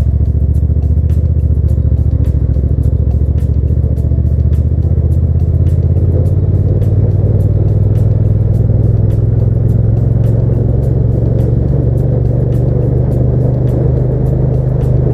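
Hyosung GT650 V-twin motorcycle engine running at a steady cruise, its pitch rising slightly about halfway through, under background music with a steady beat.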